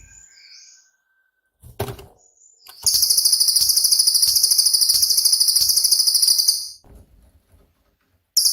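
Cililin bird's song: a few soft short notes, then a loud, very rapid, high-pitched trill of about four seconds, the long 'shooting' (tembakan) phrase prized for training other songbirds. A second short burst of the same trill begins near the end.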